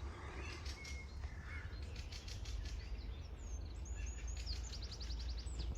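Small birds calling in short high chirps and glides, with a quick trill about four and a half seconds in, over a faint low steady rumble.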